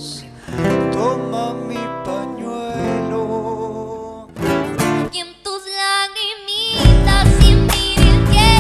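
Argentine folk song played live on acoustic guitars, strummed and picked. A voice sings a line with vibrato about four and a half seconds in, and the bass and percussion come in with the full band about seven seconds in, much louder.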